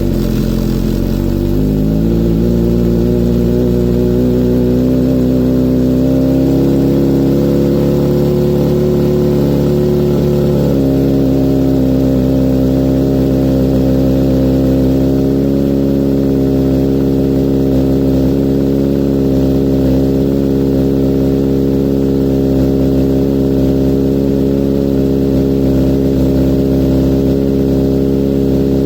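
Kawasaki Z900's inline-four idling through an Akrapovic full exhaust with no dB killer, just after a cold start. The idle climbs over the first few seconds, holds high, then drops to a lower, steady idle about eleven seconds in.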